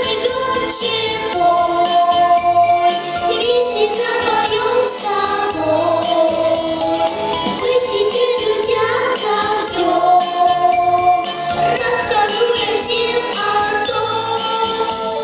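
A song: voices singing a melody over instrumental accompaniment.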